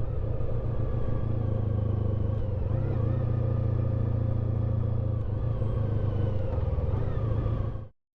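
Honda ST1300 Pan European's V4 engine running steadily at low revs, with a deep rumble; the sound cuts off suddenly near the end.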